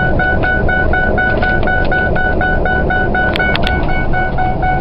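Ford F-150 seatbelt warning chime beeping rapidly, about four short tones a second, over the steady low drone of the truck's 4.6 V8 cruising through a Thrush turbo muffler. A couple of sharp knocks come about three and a half seconds in.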